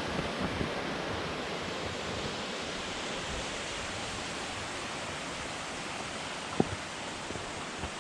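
Steady rush of a mountain stream or waterfall. A single sharp tap about six and a half seconds in.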